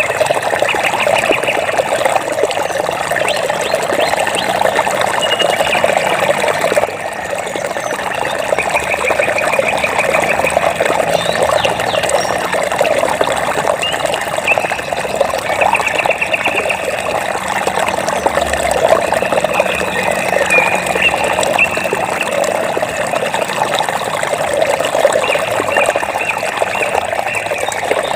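Flowing water trickling and splashing steadily. Short, high, rapidly pulsed trills repeat every few seconds above it.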